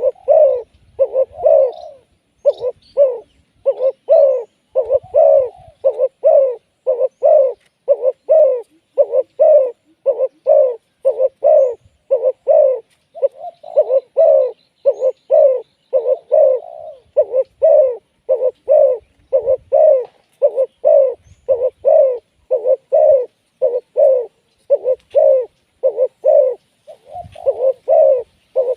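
Spotted dove cooing over and over, short low notes at about two a second with hardly a break. Faint higher chirps of another bird come in around the middle.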